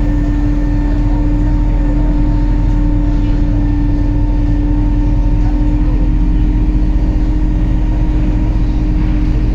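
MAZ-203 city bus under way, heard from inside the passenger cabin: a steady low engine and drivetrain drone with a constant whine over it.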